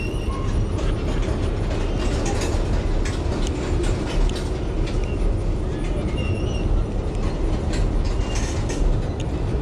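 Freight train of tank cars rolling across a railroad bridge overhead: a steady low rumble with scattered sharp clicks.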